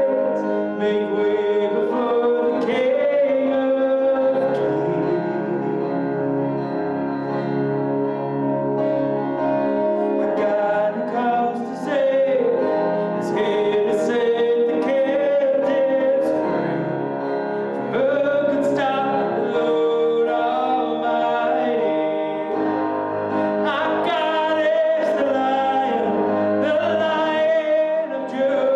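Live worship band playing, with singing over guitar and keyboard.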